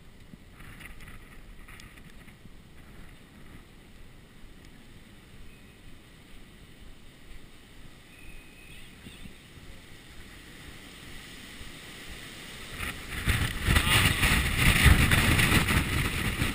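Hurricane wind buffeting a GoPro in its waterproof case, heard muffled and faint at first, then swelling into a loud gust about thirteen seconds in.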